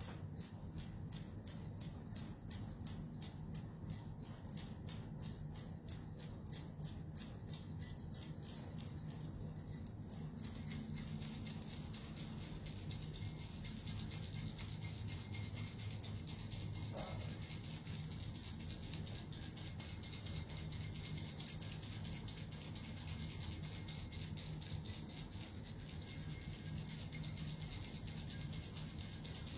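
Small jingling bells (suzu) shaken in an even rhythm, about three shakes a second, then shaken continuously from about ten seconds in as a steady shimmering jingle.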